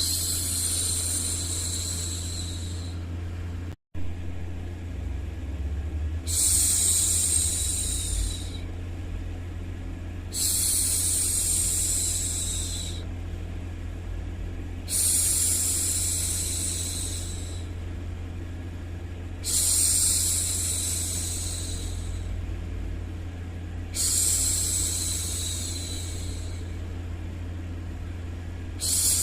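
A woman shushing for a baby: long 'shhh' sounds of about two and a half seconds each, repeating roughly every four to five seconds over a steady low white-noise rumble. The sound cuts out for a split second a little before four seconds in.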